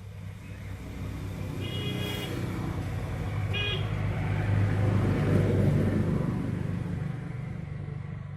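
A motor vehicle's engine rumbling as it approaches and passes, growing louder to a peak about halfway through and then fading. Two short horn toots sound about two and three and a half seconds in.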